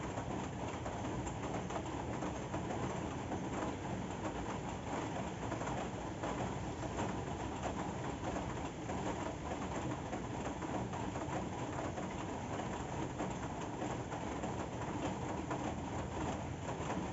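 Steady rain falling, an even patter of many fine drops that holds the same level throughout.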